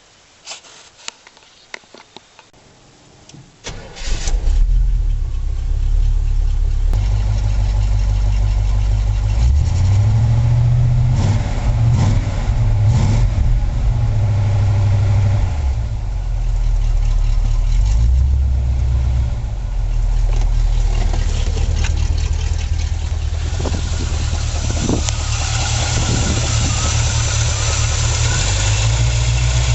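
A few clicks, then the 1978 Chevy truck's 350 V8 with its four-barrel Quadrajet carburetor starts about four seconds in and runs, its revs rising and falling several times as the throttle is blipped.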